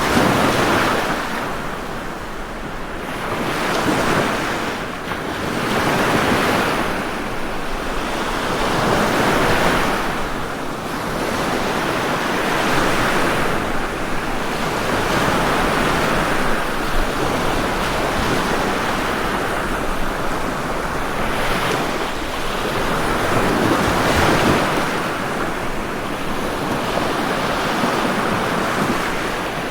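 Ocean surf: a continuous rush of breaking waves, swelling and easing about every three seconds.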